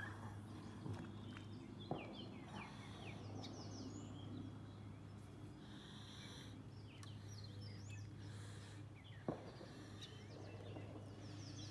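Faint outdoor birdsong: scattered short chirps and quick sweeping calls from songbirds over a steady low hum, with two light knocks, one about two seconds in and one near the end.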